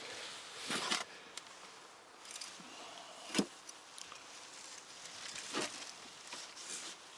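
Hands sifting through potting soil in a harvested potato bucket: soft scraping rustles, with one sharp knock about three and a half seconds in.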